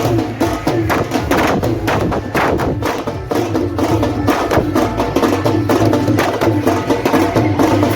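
Dhol and tasha drums beating a fast, steady rhythm.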